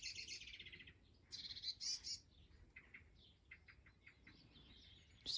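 Faint songbirds singing: a rapid trill, then a higher warbling phrase, then scattered short chirps.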